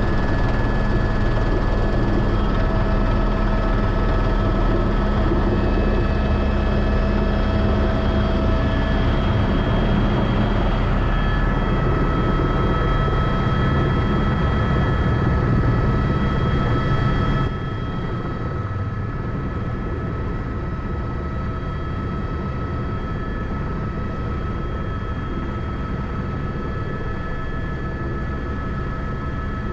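Tour helicopter running steadily: a dense drone with several thin turbine whines over it. About two-thirds of the way through it drops suddenly in level and loses its upper hiss, while the whines carry on.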